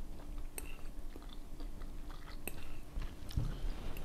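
A person chewing a mouthful of fried noodles, with a few small clicks of a fork against the bowl.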